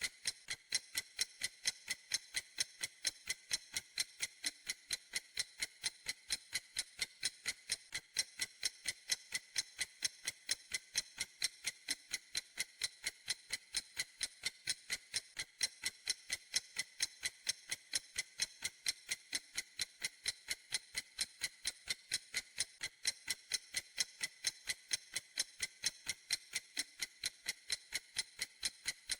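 Clock ticking steadily, a few light, sharp ticks a second at an even pace.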